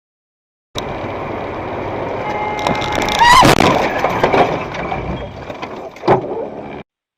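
Dashcam recording of car traffic: a steady road and engine noise, a loud sudden squeal with a pitch that rises and falls about two and a half seconds in, and a sharp knock near the end. The sound starts and stops abruptly.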